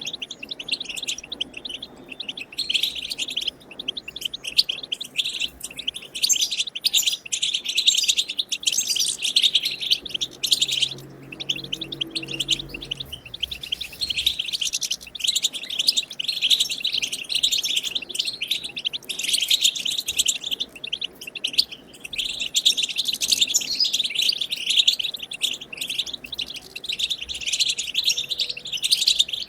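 European goldfinch song: a continuous, rapid twittering chatter.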